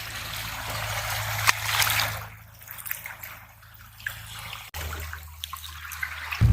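Seawater trickling and splashing among reef rocks, loudest in the first two seconds, then fainter with a few small clicks.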